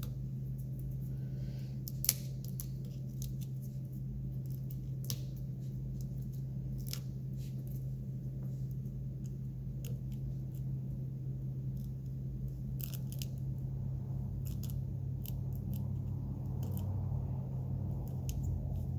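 Razor blade shaving and trimming a hard, epoxy-coated foam popper body: scattered short scraping and clicking cuts, one sharper click about two seconds in, over a steady low hum. The blade is a dull one.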